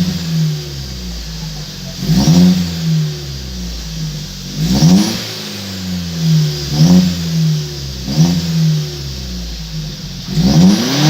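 Opel Astra J's 1.4 turbo four-cylinder (A14NET) through a decat downpipe and straight-through mufflers, blipped in short revs from idle: about five quick rises in pitch, each dropping straight back to idle.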